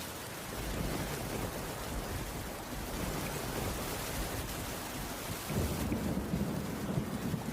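Steady heavy rain with low rolling thunder, which swells up louder about five and a half seconds in.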